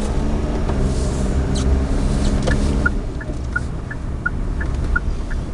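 Suzuki Alto 4WD's small engine running, heard inside the cabin. Its hum eases off about three seconds in. From about halfway through, the turn-signal indicator ticks steadily in an alternating two-tone tick-tock, about three ticks a second.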